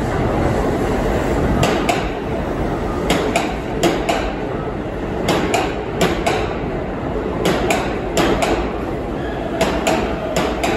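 Keisei electric commuter train arriving slowly at a platform, a steady rumble with its wheels clacking in close pairs over the track joints, a pair every second or so.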